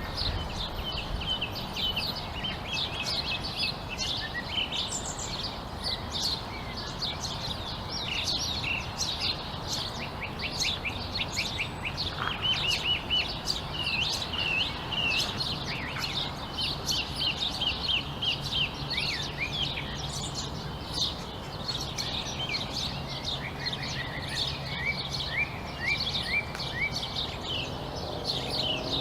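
A chorus of many birds chirping, with dense, overlapping short chirps and quick repeated trills.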